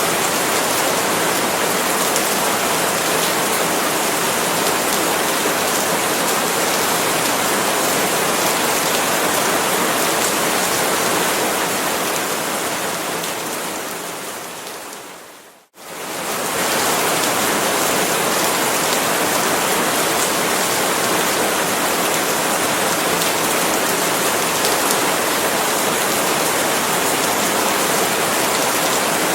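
Steady heavy rain falling on palm leaves. About halfway through it fades out over a few seconds to a brief moment of silence, then quickly swells back to full level, like the seam where a recording loops.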